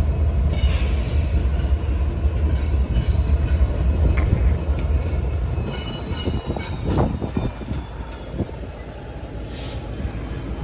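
Union Pacific freight train rolling past: a heavy low rumble that eases off after about six seconds, with a faint high wheel squeal and a few sharp clanks about seven seconds in.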